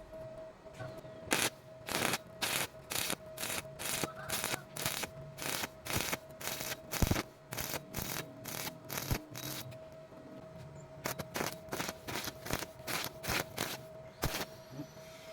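Welding arc crackling in short repeated bursts, about two a second, as in a stitch or whip-and-pause weld, with a steady tone underneath. The bursts stop for about a second and a half past the middle, then resume.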